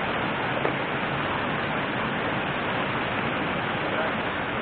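River water rushing steadily, an even, constant noise.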